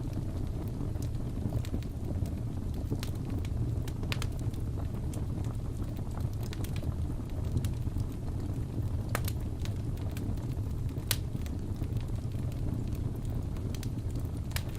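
Wood fire in a fireplace crackling, with a steady low rumble of flames and scattered sharp pops and snaps every second or so.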